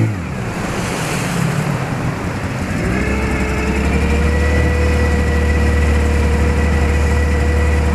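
Zongshen T30 outboard motor's note falling away at the start, leaving the rush of water and wind, then about three seconds in the engine picks up with a rising pitch and settles into a steady drone.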